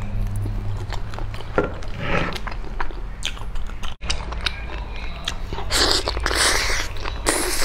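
Close-miked eating of sauce-glazed fat pork: irregular wet biting, chewing and mouth smacks, busiest in the last couple of seconds. There is a brief dropout about four seconds in.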